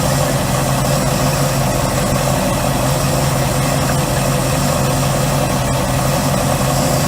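Bayliner boat's inboard engine running steadily at a constant speed, with no revving.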